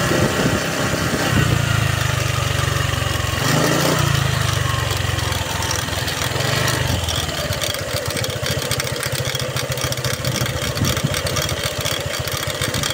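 Honda ADV150 scooter's single-cylinder engine running, rising in speed briefly twice, then settling into a steady idle about seven seconds in.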